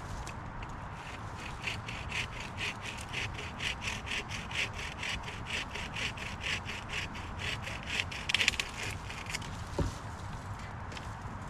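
Hand saw cutting through wood in quick, even back-and-forth strokes, several a second. The sawing stops about a second and a half before the end.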